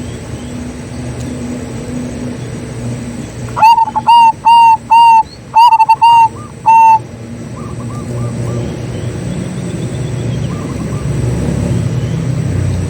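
Zebra dove cooing: a loud run of about eight short, clipped coo notes lasting some three seconds, with fainter doves calling in the background over a steady low rumble.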